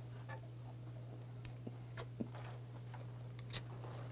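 Faint closed-mouth chewing of a mouthful of semi-dried saury (gwamegi) wrapped in laver, with a few small wet clicks. A steady low hum runs underneath.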